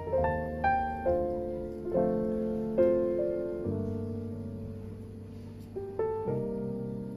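Slow piano music: notes and chords struck one after another and left to ring and fade, with a longer held chord in the middle.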